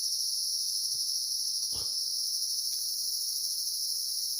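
Steady high-pitched chorus of forest insects, unbroken throughout, with a single short knock a little under two seconds in.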